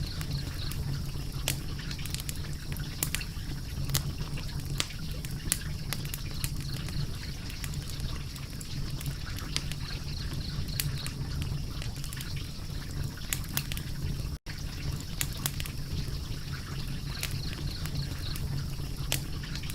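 Wood fire crackling: irregular sharp pops and snaps over a steady low rumble of the flames, with a split-second dropout about two-thirds of the way through.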